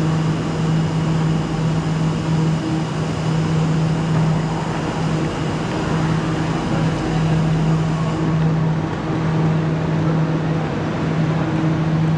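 A standing passenger train giving off a steady low mechanical hum, one constant droning tone under a noisy wash.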